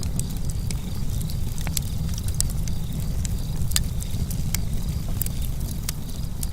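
Campfire crackling: frequent, irregular sharp snaps and pops of burning wood over a steady low rumble.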